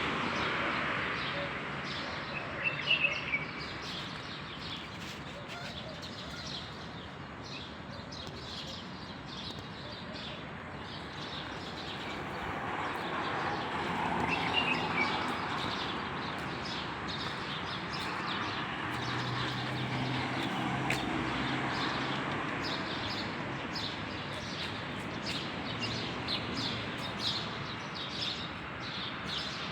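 Birds chirping: many short calls over a steady hum of background noise, with a few brief higher whistled calls.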